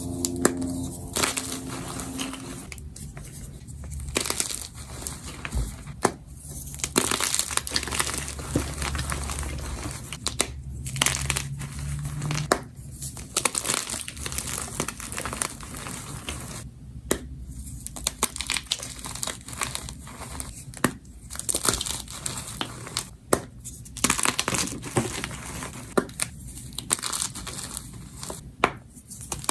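Gym chalk being crumbled and crushed: a dense crunchy crackle full of sharp little cracks, broken by several brief pauses.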